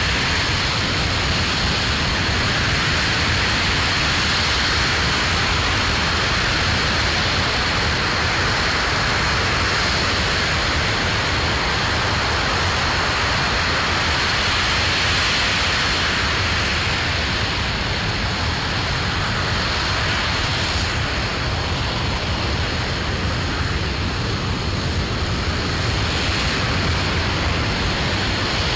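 Aerojet Rocketdyne RS-25 liquid-hydrogen/liquid-oxygen rocket engine running steadily during a static hot-fire test: a continuous, unbroken roar with a faint steady high tone over it.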